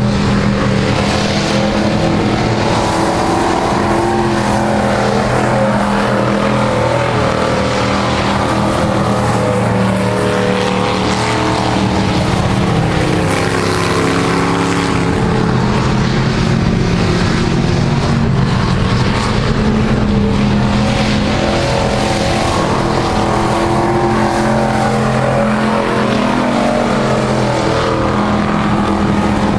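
Engines of a field of stock-car-style race trucks running hard around the track, a continuous loud roar whose pitch rises and falls as the trucks accelerate, lift and pass.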